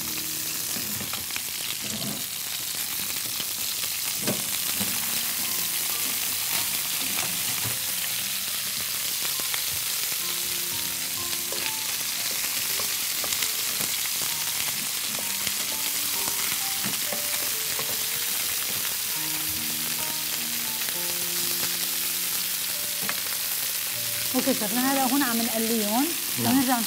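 Chicken wings sizzling steadily in a hot frying pan as they are turned over with metal tongs.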